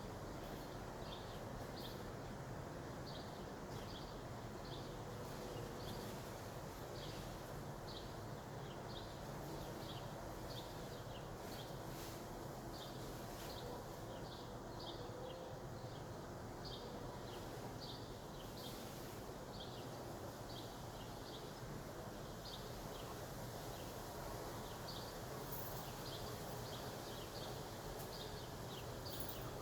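Outdoor ambience: short high-pitched chirps repeating every second or so over a steady low background. No clear brake squeal stands out.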